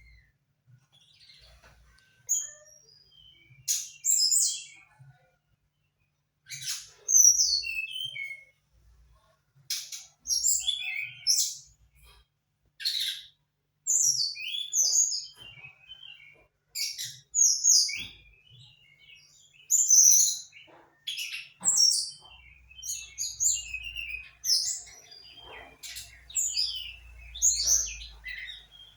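Trotol songbird singing: short bursts of high chirps and trills, a phrase every second or two. This is the kind of song kept-bird owners play as a lure to get other trotol birds to start singing.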